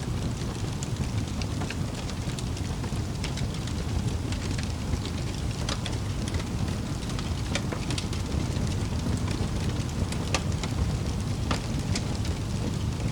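Wood fire burning in a fireplace: a steady low roar of flames with frequent irregular crackles and sharp pops.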